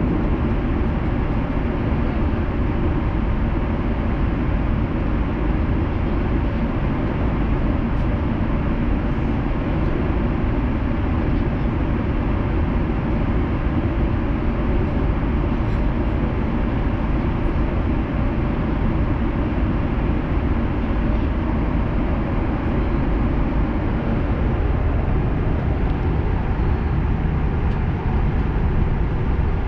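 Steady cabin noise of an Airbus A330-300 in flight: an even, constant low rush that does not change.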